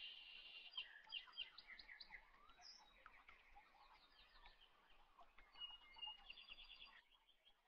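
Faint birds chirping and trilling, with short calls throughout and a quick repeated trill near the end.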